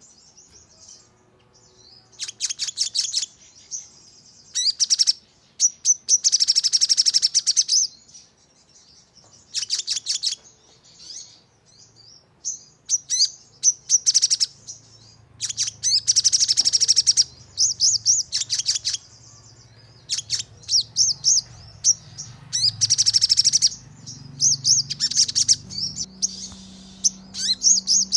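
A sogon songbird singing in high, rapid bursts of clipped repeated notes, each run lasting up to about two seconds with short pauses between. This is the fast 'nembak' song that keepers play to provoke their own birds into singing.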